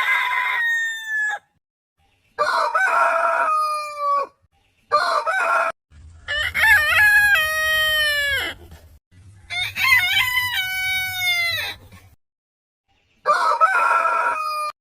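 Roosters crowing: six crows in a row, each a loud call that falls in pitch at its end, separated by sudden silent gaps. The two longest crows come in the middle, over a low hum.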